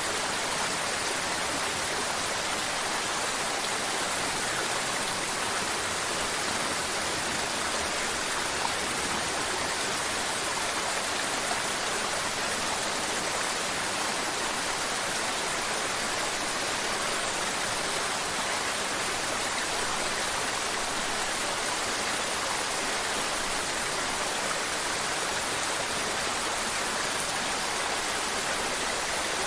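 Mountain river water flowing and babbling over rocks, a steady, even rush with no breaks.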